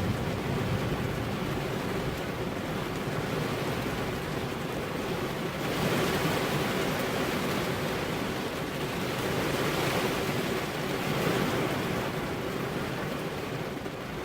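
Steady rain falling, an even hiss that swells louder about six seconds in and again around ten seconds.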